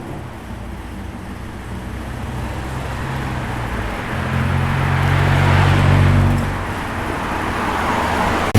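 Ford XW Falcon's engine as the car moves off and passes, its note building steadily for several seconds, then falling away about six and a half seconds in.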